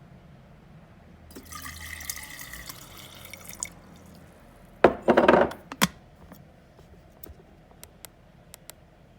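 Water pouring into an electric kettle for about two seconds. Then a sharp knock and a short, loud clatter about five seconds in, followed by a click and a few light ticks.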